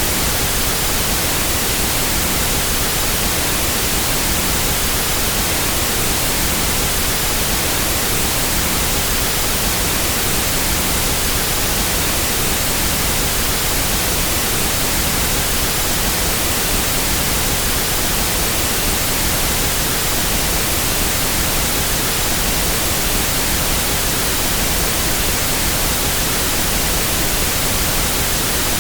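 Pink noise test signal: a steady, unchanging hiss spread evenly across the whole audible range, used for equalizing sound equipment.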